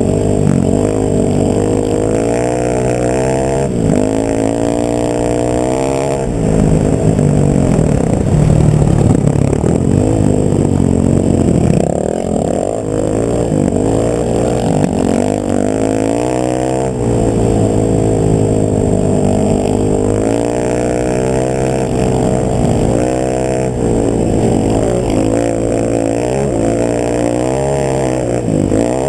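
A vehicle engine running, its pitch rising and falling again and again as the engine speed changes.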